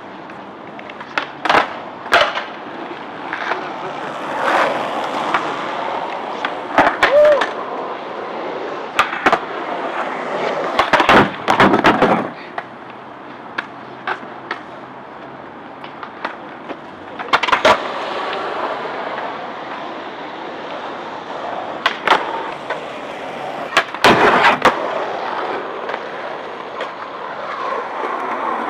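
Skateboards rolling with repeated sharp clacks and knocks of boards hitting and landing on a grind box, loudest in clusters about eleven and twenty-four seconds in, with a short squeal about seven seconds in.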